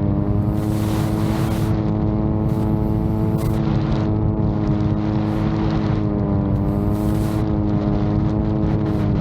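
VTOL drone's motors and propellers running with a steady droning hum, its pitch dipping slightly about six and a half seconds in. Strong wind buffets the microphone in repeated hissing gusts.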